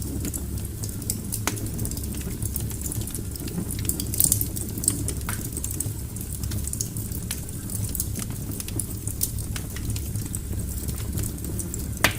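Wood fire burning in a fireplace: irregular sharp crackles and pops from the logs over a low steady rumble of the flames, with a cluster of louder pops about four seconds in and a loud pop near the end.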